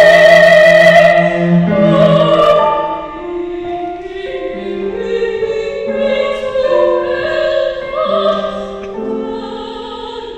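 Classical-style music: a voice singing long, held notes in an operatic manner over a low sustained instrumental line, moving slowly from note to note.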